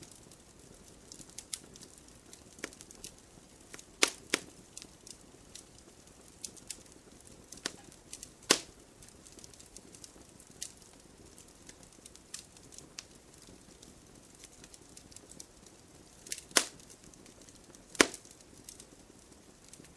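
Wood fire crackling: irregular sharp pops and snaps over a soft low hiss, with a handful of much louder pops standing out.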